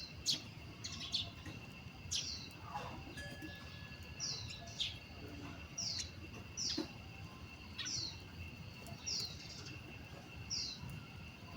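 Birds chirping: short, sharply falling high notes repeated about once a second, over a faint steady high-pitched tone.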